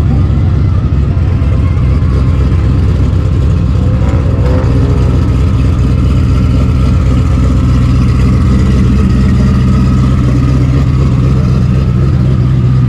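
Car engine running with a steady low drone and rumble, a brief sliding tone about four seconds in.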